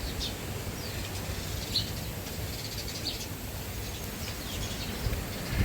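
Small birds chirping in short, scattered calls over a low, steady rumble of wind.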